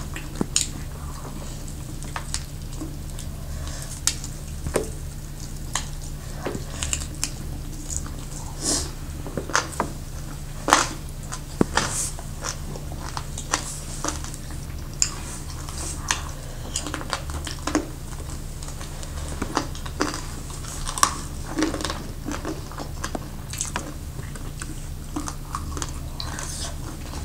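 Chewing and biting on barbecued chicken wings, with many short, irregular clicks and occasional clinks of dishes and cutlery, over a steady low hum.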